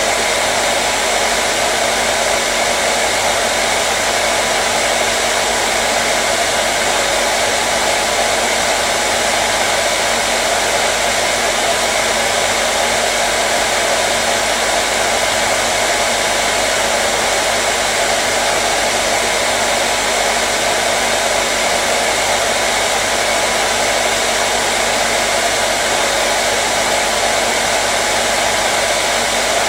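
Hair dryer running continuously at a steady speed: an even rushing blow of air with a faint motor hum underneath.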